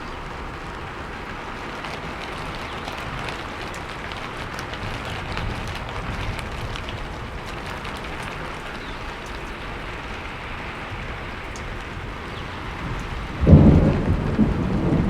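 Steady rain falling, with scattered individual drops ticking through it. Near the end a sudden loud clap of thunder breaks in and rolls on as a deep rumble.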